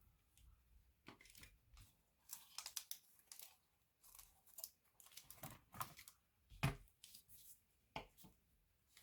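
Irregular small clicks, scrapes and rustles of laptop parts and tools being handled, with a louder knock about two-thirds of the way through.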